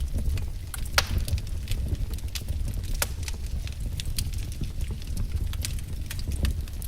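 Wood fire crackling: a steady low rumble of burning logs with irregular sharp pops and snaps, the loudest about a second in.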